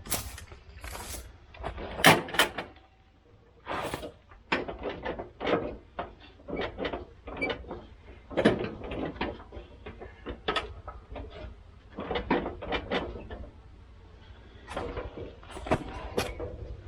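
Irregular clicks and clanks of hand tools on metal as parts are worked loose to take the engine off a riding mower.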